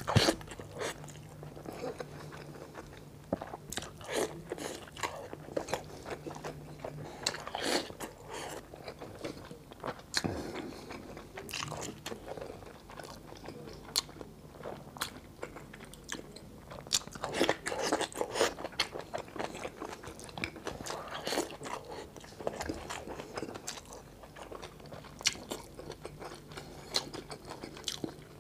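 Close-miked eating sounds: wet chewing and crunching as a person eats rice and boiled vegetables by hand, in irregular clusters of bites and smacks.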